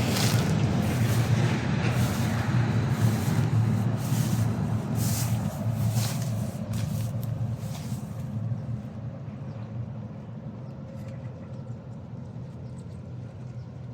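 Wind gusting through garden trees and banana leaves with a rushing rustle, and wind rumbling on the microphone. It comes in surges for the first several seconds, then dies down and grows quieter.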